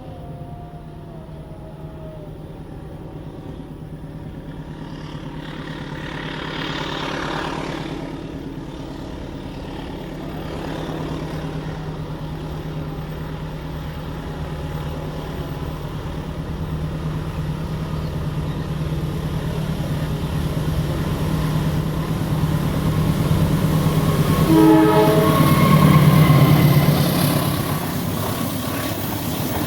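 Diesel locomotive hauling a passenger train, its engine drone growing steadily louder as it approaches and passes close by near the end, then easing off. A short horn sound comes just before it passes.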